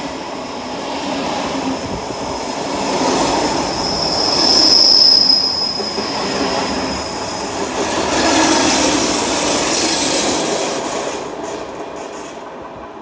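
Red electric commuter train passing close alongside the platform at speed, its wheels and cars running loudly on the rails. A high steady wheel squeal rises about four seconds in and fades a few seconds later, followed by a fainter, higher squeal; near the end the train noise drops away.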